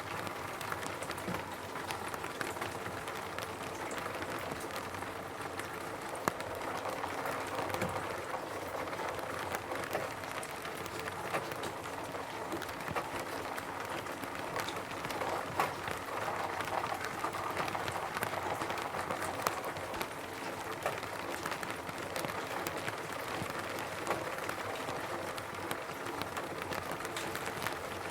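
Rain falling on a roof: a steady patter with many individual drop ticks scattered throughout.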